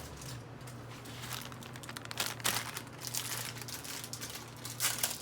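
Plastic food packaging crinkling and rustling in irregular bursts as it is handled, loudest about two seconds in and again near the end.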